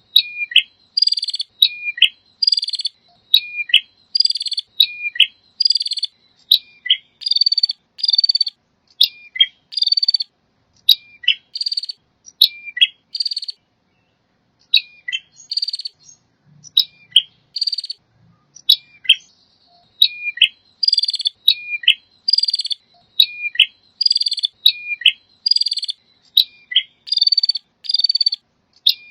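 Male prinia (prenjak) singing: a sharp note dropping to a lower chip, followed by loud buzzy trills, repeated about once a second with a brief pause partway through.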